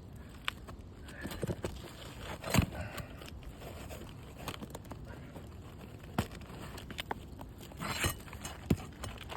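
Scattered sharp taps and scrapes of hand tools prying at a roof shingle and its nails, the loudest about two and a half seconds in.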